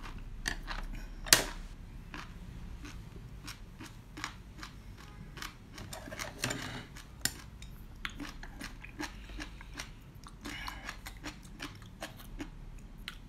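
A person chewing food close to the microphone: a steady run of small wet mouth clicks and smacks, the sharpest about a second in.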